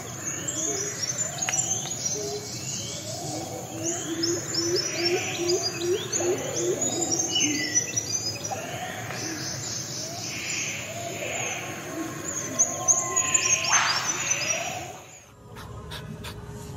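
Birds chirping and calling over one another: many short, repeated sweeping notes at several pitches, overlapping throughout. The birdsong cuts off abruptly near the end.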